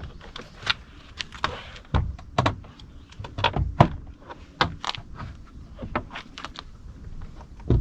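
Plastic inner door trim panel of an Abarth 500/595 being lifted off the door: a run of irregular clicks and knocks, with a few heavier thuds among them.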